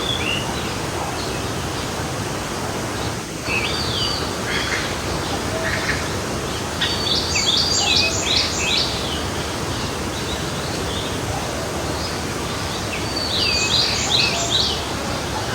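Steady rush of a flowing forest stream, with a songbird singing over it: a few short notes about four seconds in, then two similar phrases of rapid notes, the second about six seconds after the first.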